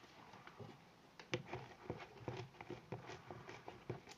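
Sticky homemade glue-and-borax slime being worked by hand on a plate, making irregular small wet clicks and crackles, with one loud sharp knock at the very end.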